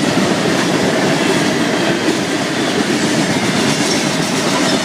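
Florida East Coast Railway freight train's cars rolling past close by: steel wheels on the rails making a steady, loud rolling rumble and clatter.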